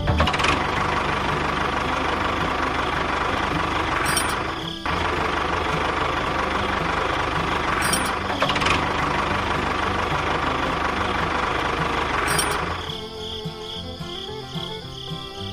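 A small motor running with a dense whirring noise, over background music. It cuts out briefly about five seconds in, starts again, and stops near the end, leaving the music.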